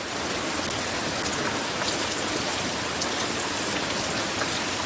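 Light rain falling steadily: an even hiss of rain with a few separate drops ticking.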